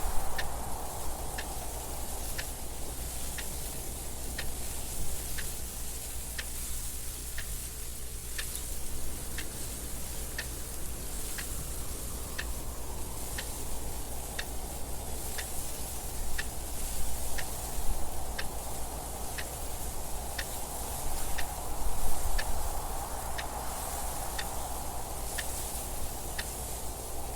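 A clock ticking steadily at an even pace, over wind noise that swells and fades slowly in gusts.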